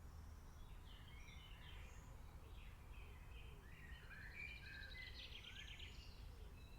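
Faint rainforest ambience of scattered bird calls and chirps, with a quick trilling call about two-thirds of the way through, over a low steady background rumble.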